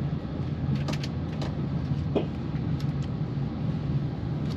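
Steady low rumble of a moving passenger train heard from inside the carriage, with a few light clicks and rattles.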